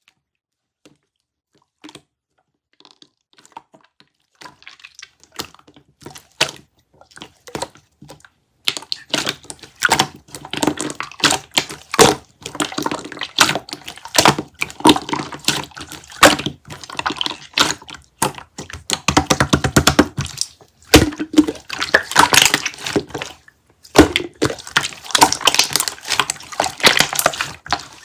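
Rapid wet crackling and squishing clicks of a soft melon jelly being squeezed and worked, sparse and faint at first, then dense and loud from about nine seconds in, with brief pauses.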